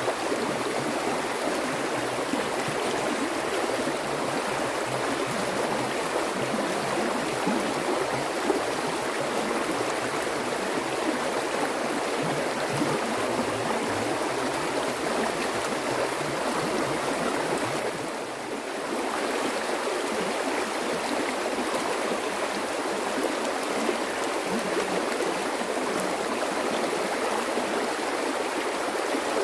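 Flowing water rushing steadily, a continuous even wash with a brief dip in level about two-thirds of the way through.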